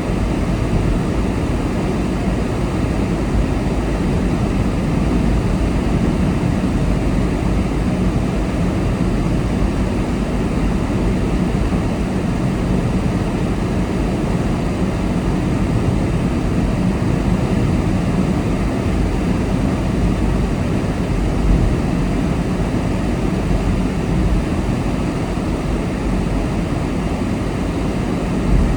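Car driving along a road: a steady rumble of tyre and engine noise, with two brief small bumps, one about two-thirds of the way through and one at the very end.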